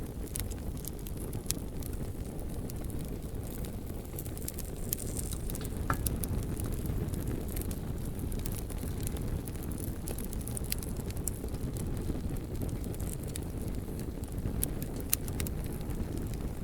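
Bonfire burning outdoors: a steady low rumble of flames with irregular sharp crackles and pops from the burning logs, one louder pop about six seconds in.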